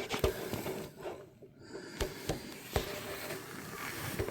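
Handling noises while working around a truck's cowl area: several short, light clicks and knocks, spaced irregularly, over a low background hiss.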